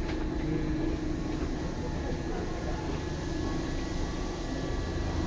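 Seibu 2000 series electric train running, heard from inside the car: a steady low rumble with a constant motor hum.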